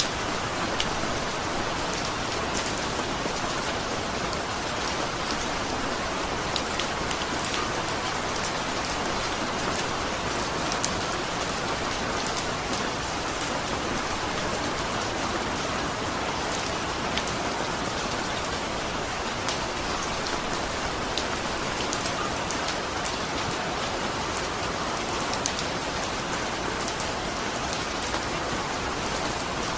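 Steady rain, with individual raindrops ticking sharply over an even hiss.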